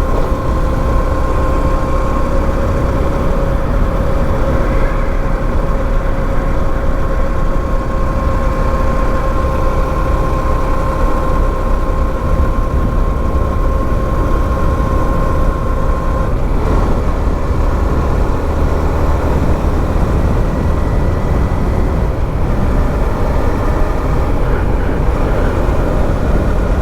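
Motorcycle riding along at a steady pace, its engine mixed with heavy wind rumble on the microphone. A steady high tone holds over it for roughly the first sixteen seconds, then cuts off.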